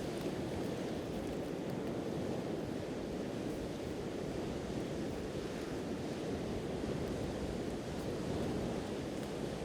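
Steady rush of sea surf washing ashore, with a few faint crackles from a wood campfire.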